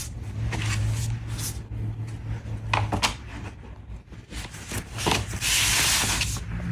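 Rubbing and rustling as an envelope is handled and opened, with a few soft clicks around the middle and a longer rustle about five and a half seconds in. A low steady hum runs underneath.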